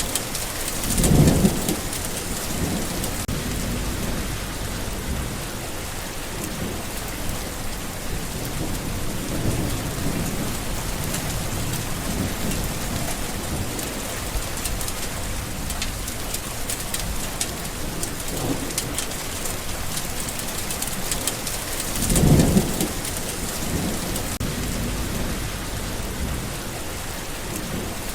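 Steady rain falling, with thunder rumbling twice loudly, about a second in and again past the twenty-second mark, and fainter rolls in between.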